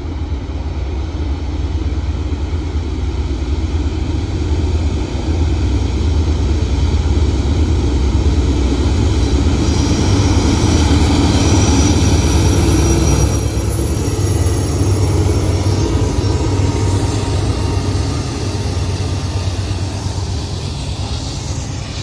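Diesel freight locomotives, Norfolk Southern leading with Canadian Pacific power, pulling an oil train past: a loud, deep engine rumble builds as they approach. It is loudest, with a high whine, as the locomotives go by about halfway through, then gives way to the steady rolling of tank cars over the rails.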